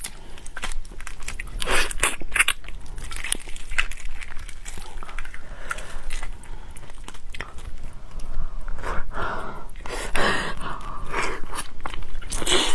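Biting into and chewing raw marinated black tiger prawn, with irregular crunches and clicks of the mouth.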